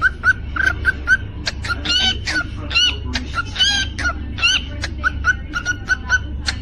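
Cockatiel calling: short chirps about three a second, broken about two and three and a half seconds in by longer whistled notes that rise and fall, with sharp clicks between.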